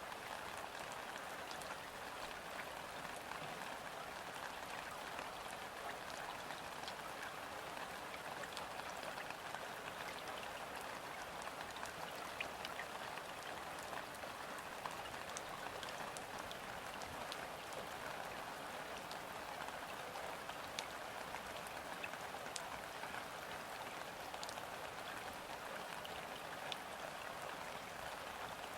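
Gentle, steady rain falling on river water, a soft even hiss with many scattered ticks of single drops.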